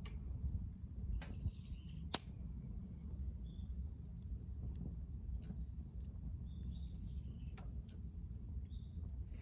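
Wood fire burning in a fire stand, crackling with scattered small clicks and one sharp pop about two seconds in. Small birds chirp briefly now and then in the background.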